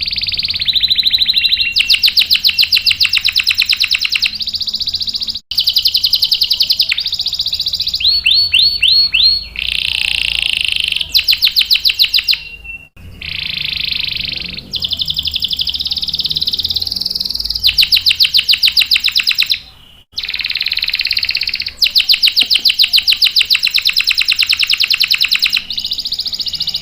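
Domestic canary singing a continuous song of fast trills and rolls, phrase after phrase, with short breaks between phrases.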